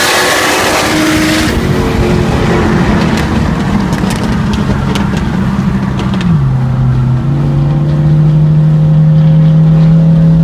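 A car engine heard from inside the cabin. There is a loud rush of engine and wind noise for the first second and a half, which then drops away to a steadier engine note. That note steps down in pitch about six seconds in, holds steady, and grows a little louder near the end.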